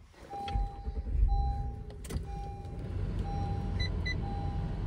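2020 Honda Pilot Elite's 3.5-litre V6 starting at the push of the start button: it catches about half a second in, is louder for a moment, then settles to a steady idle, heard inside the cabin. A seat-belt reminder chime beeps about once a second over it.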